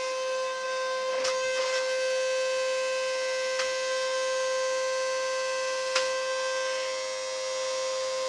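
Vacuum cleaner running with a steady high-pitched whine over a rushing hiss, with a few short knocks and clicks, the sharpest about six seconds in.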